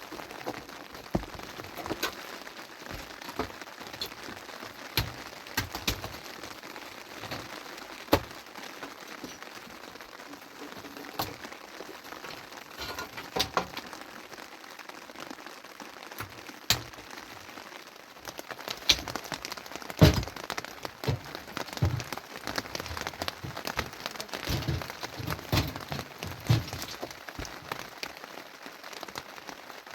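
Steady rain with scattered sharp cracks and knocks at irregular intervals, coming thicker and in clusters in the second half.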